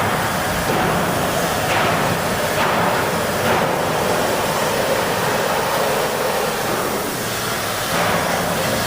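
Steady industrial workshop din around railway wagons, with a few faint knocks, typical of huck bolting on wagon bodies.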